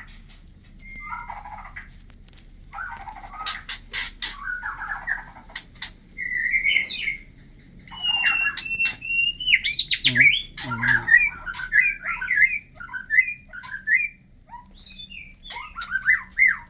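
White-rumped shamas calling: quick gliding chirps and whistles in short varied phrases, busiest in the second half, with one held whistle about eight seconds in. A few sharp clicks sound in the first half.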